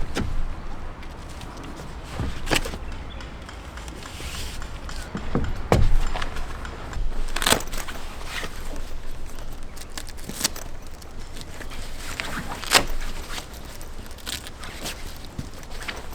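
Scattered sharp knocks and clicks, about five of them several seconds apart, over a steady low rumble.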